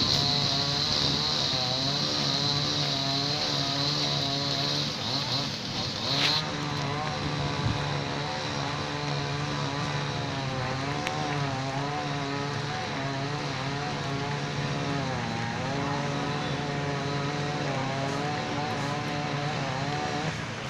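Chainsaw running under load while cutting up a fallen tree, its engine pitch wavering up and down as the cut goes. A high steady whine runs with it and stops about six seconds in.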